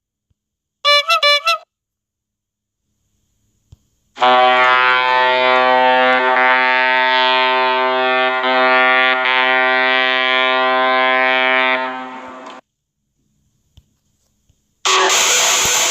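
Sound-effect clips played one after another: a brief burst of four quick warbling chirps about a second in, then a single brass-like horn note held steady for about eight seconds and fading near its end. A loud, harsh new sound starts just before the end.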